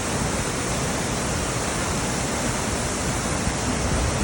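Ceunant Mawr waterfall: water falling and rushing in a steady, unbroken roar.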